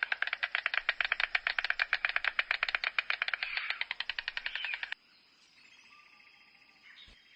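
Stork clattering its bill: a fast, even rattle of wooden-sounding clacks, about ten a second, that stops abruptly about five seconds in.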